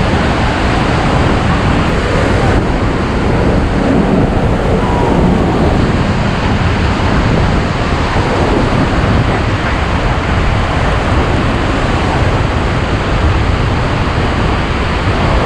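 Iguaçu Falls: the loud, steady rush of heavy falling water.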